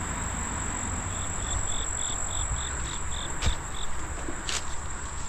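Insects shrilling in a steady high drone, with a run of about ten quick, evenly spaced chirps, about three a second, starting about a second in. A low rumble runs underneath, and there are a couple of sharp ticks near the middle.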